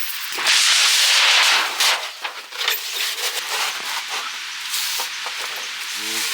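Yakitori skewers sizzling over the heat, with a loud surge of sizzling about half a second in that dies down after a second and a half, then scattered crackling pops.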